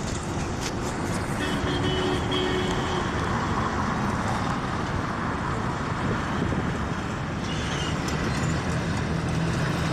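Steady road noise of a vehicle travelling along a highway, with traffic around it. A short, faint tone sounds over it about one and a half seconds in.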